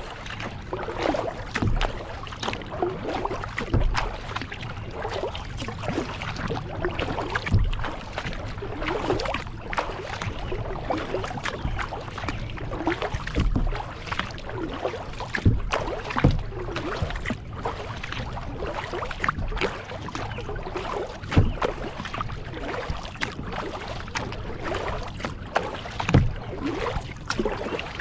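Kayak being paddled: the paddle blades dip and splash in the water with steady dripping and lapping, and there are occasional low thumps.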